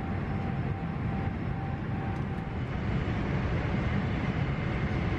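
Steady low rumble of an airliner in flight, jet engine and airflow noise heard from inside the passenger cabin.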